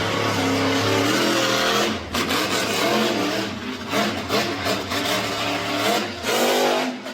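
Monster truck engine revving, its pitch climbing and falling again and again, easing off briefly about two seconds in and dropping away near the end.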